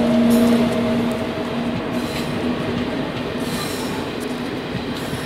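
Coaches of an Indian Railways express train rolling past at speed, a steady rush of wheel and rail noise that eases slowly. A steady hum from the WAP7 electric locomotive, which has just passed, fades away over the first two or three seconds.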